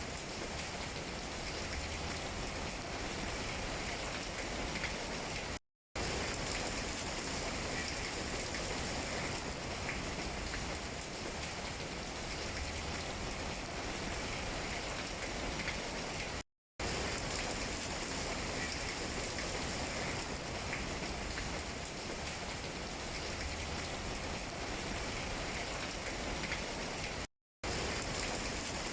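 Steady rain falling on tree leaves, an even hiss of drops. It cuts out to dead silence for a fraction of a second three times, about every eleven seconds.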